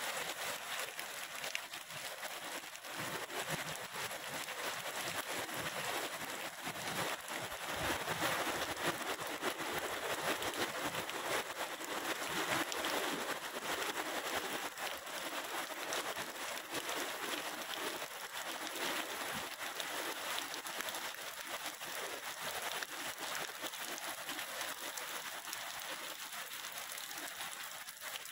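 Steady rain falling, a continuous hiss full of fine drop ticks, a little heavier about halfway through.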